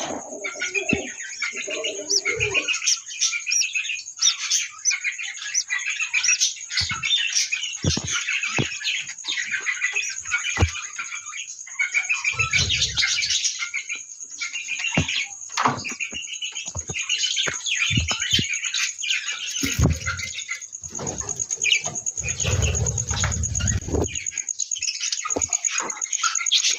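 A flock of budgerigars chattering and chirping continuously in an aviary. Short clicks and a few low rumbles are mixed in, the longest about two seconds long near the end.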